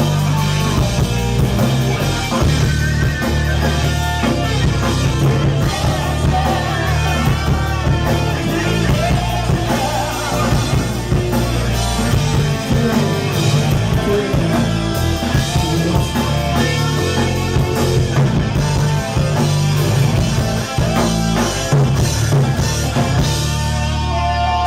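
Live rock band playing loudly: drum kit, bass and electric guitar in a dense, continuous passage.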